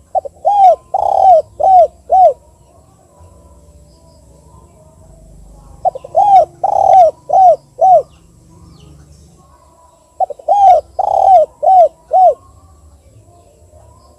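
Spotted dove cooing, the 'kuk 2' song type: three phrases of about five arched, hollow coo notes each, the first note short, coming at roughly four-second intervals.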